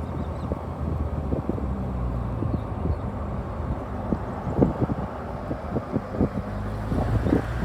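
Car engine and road noise heard from inside a moving car: a steady low hum, with scattered light knocks and rattles.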